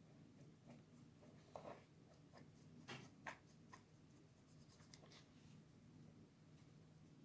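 Near silence: a faint steady hum with a few soft taps and scrapes, the clearest about one and a half and three seconds in.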